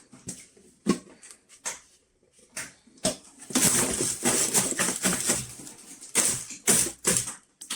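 Food containers and packaging being handled: a few light clicks and knocks, then a couple of seconds of rustling and scraping, and two or three sharp knocks near the end.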